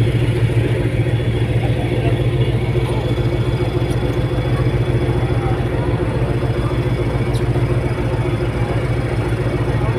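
Steady low drone of the fast ferry's diesel engines running, with a few steady hum tones above the rumble.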